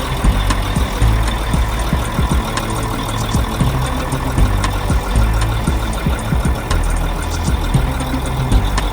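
A large engine running steadily, with irregular short knocks through it.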